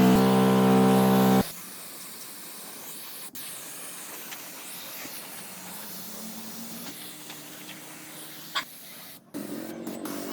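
A loud, steady, tone-rich sound cuts off suddenly about a second and a half in. It gives way to a steady spraying hiss of paint being sprayed onto engine parts, with a couple of faint clicks, which drops out near the end.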